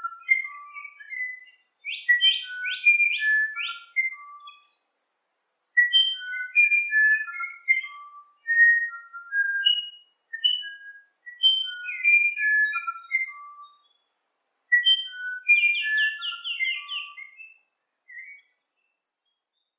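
A songbird singing phrases of clear whistled notes, mostly stepping down in pitch, broken by quick trills and separated by short pauses.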